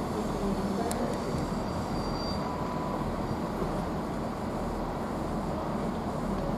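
CrossCountry Class 221 Voyager diesel-electric train pulling out of the station, its engines and wheels running with a steady noise.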